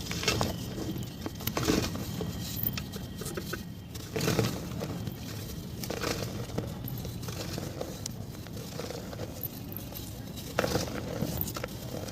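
Soft wet mud being squeezed and crumbled by hand: irregular squelching and crackling, with louder crackles about a second in, around four and six seconds, and near the end.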